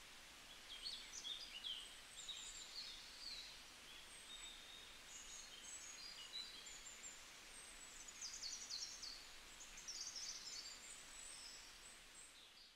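Faint birdsong: small birds chirping and trilling in quick, high, scattered calls over a low steady hiss of outdoor ambience.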